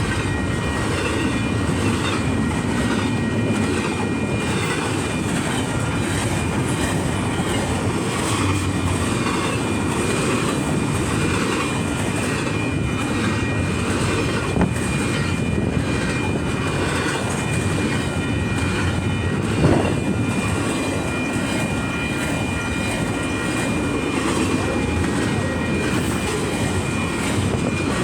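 Union Pacific train cars rolling past in a steady rumble and rattle, with one sharp, louder clank about twenty seconds in.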